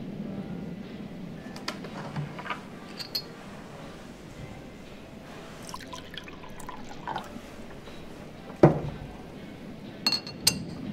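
A drink being poured at a bar: liquid pouring into a glass with scattered light glass clinks. A heavy knock about nine seconds in is the loudest sound, as of a bottle or glass set down on the counter, and a few bright glass clinks ring out about a second later.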